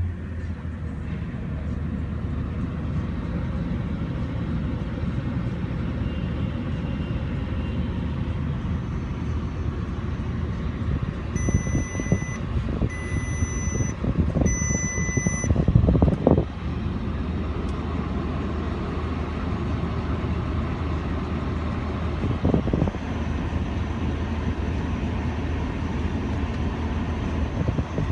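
Bentley 6.0-litre twin-turbo W12 engine idling steadily. About halfway through, three electronic warning beeps sound, each about a second long, followed closely by a short, louder thump.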